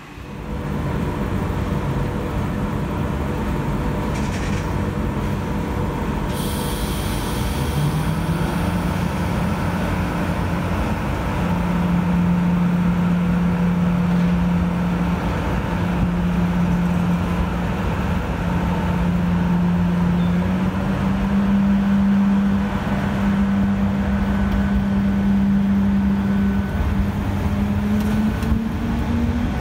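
A train at a station platform pulling away, its motor hum rising in pitch in steps as it gathers speed. A short hiss of air comes about six seconds in.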